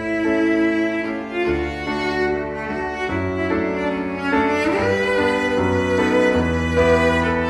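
Background music: slow bowed strings, violin over cello, playing sustained notes with a shifting bass line.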